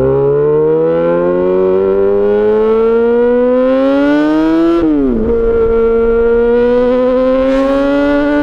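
Yamaha XJ6 S's 600 cc inline-four engine through an SC-Project exhaust, pulling hard with its pitch climbing steadily, then dropping sharply about five seconds in at an upshift before running on at a near-steady, slowly rising pitch.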